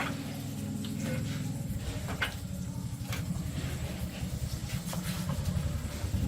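Small engine running steadily at low speed, with a fast, even pulsing beat.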